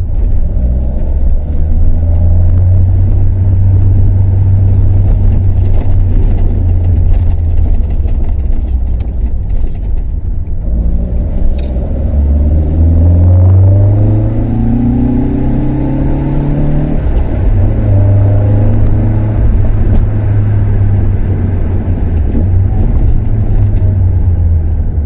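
Toyota KP61 Starlet's four-cylinder engine, fed by Solex carburettors and breathing through an aftermarket muffler, being driven: a steady drone, then revs climbing from about eleven seconds in, dropping sharply at about seventeen seconds, and settling back to a steady drone.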